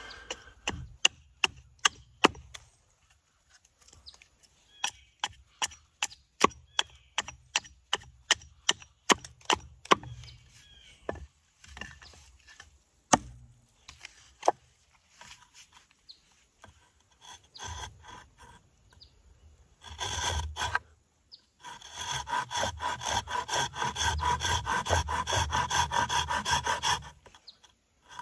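Hand tools working walnut wood. First comes a run of crisp cutting clicks, about two a second, that thins out and stops partway through. After a short pause, fast back-and-forth scraping strokes take over for the last several seconds.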